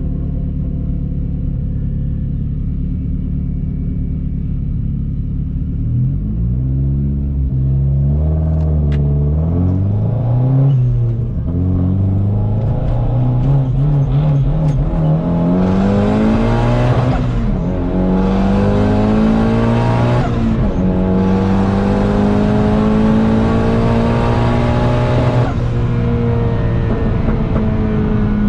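Engine of a big-turbo Hyundai Genesis running steady, then pulling hard through the gears from about six seconds in, its pitch climbing and dropping at each shift. A loud rush rides over the hardest part of the pull, before the engine settles back to a steady tone near the end.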